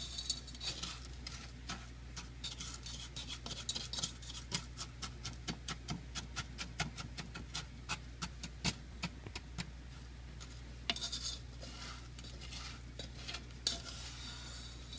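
A utensil stirring sugar as it melts into caramel in a hot pan, clicking and scraping against the pan about three or four times a second, with a few longer scrapes.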